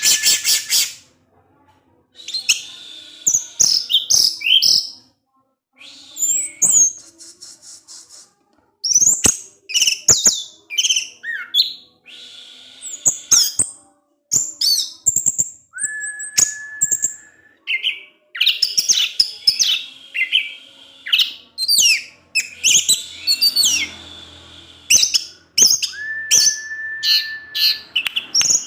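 Orange-headed thrush singing a fast, varied song of high chirps, twitters and sharp clicks in closely spaced bursts, with a longer steady whistle held in the middle and again near the end.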